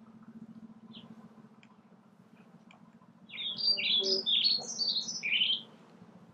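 A songbird singing a quick run of about ten short chirping notes, each sliding down in pitch, starting about three seconds in and lasting about two seconds, over a faint low hum.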